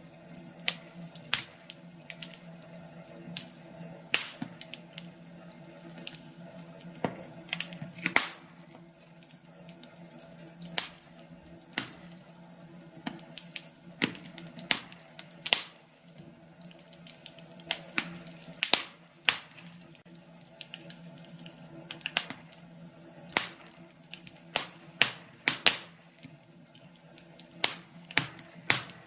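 Firewood burning in a fireplace, crackling with irregular sharp pops and snaps, sometimes several close together, over a faint steady low hum.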